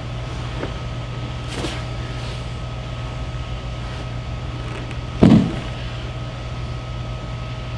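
Steady low mechanical hum with a faint higher whine, and one short loud thump about five seconds in.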